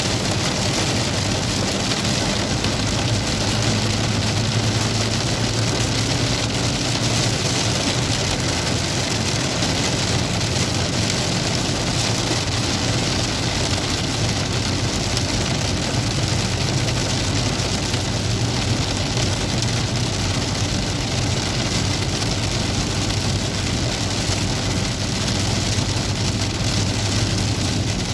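Heavy rain pouring steadily in a dense hiss, with a low steady hum underneath.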